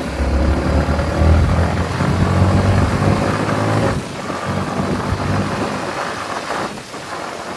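Yamaha MT-15's single-cylinder engine running under way, steady for about four seconds, then the throttle eases off and the note drops lower and fades near the end.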